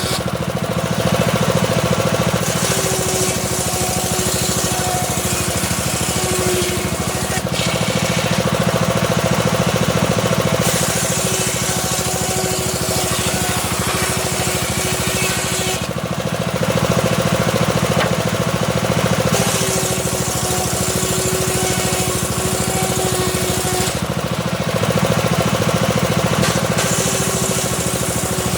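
Homemade circular saw slowly ripping a small teak log: a steady motor drone under load, with the blade's cutting noise swelling and easing in passes about every eight seconds.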